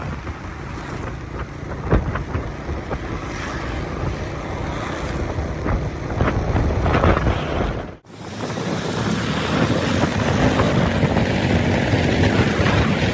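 Wind buffeting the microphone of a riding motorcycle, over engine and road noise. About eight seconds in the sound drops out for an instant and resumes with less low rumble.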